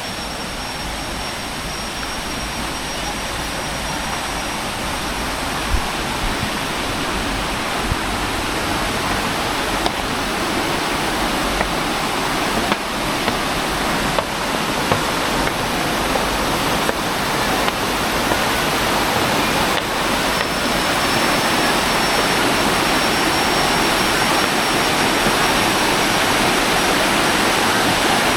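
River water rushing over rocks and small cascades, growing steadily louder as it comes closer.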